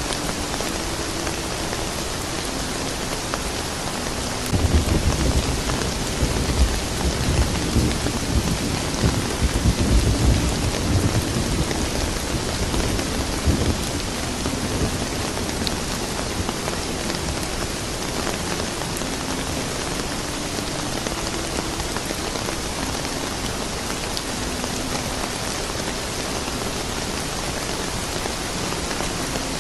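Steady rain falling, with a low rolling thunder rumble from about five seconds in to about fourteen seconds in.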